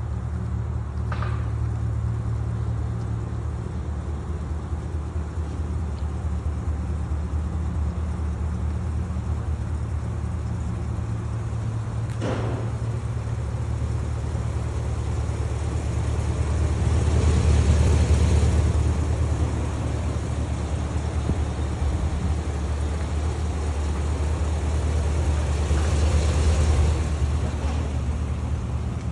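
Steady low engine rumble that grows louder about two-thirds of the way through and again near the end, with a single click about twelve seconds in.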